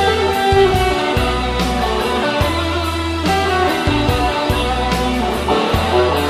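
Electric guitar playing a melodic solo line over a rock backing track with drums and bass.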